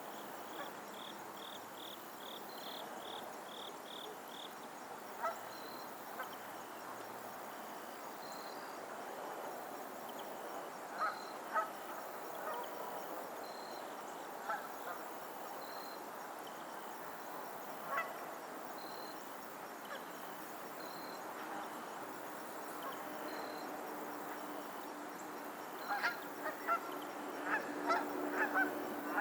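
Geese honking on a lake: scattered single honks at first, then many geese calling together near the end. A faint high chirp repeats every second or two over a steady background hiss.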